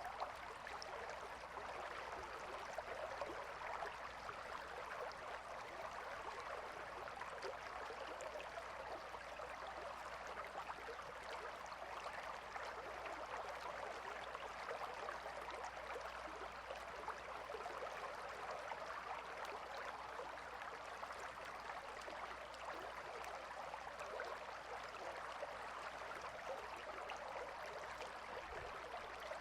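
Small river flowing over stones, a steady, even babble of running water.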